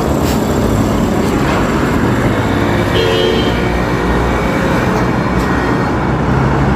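Steady loud rumble and rush of a moving vehicle, with a short horn-like tone about three seconds in.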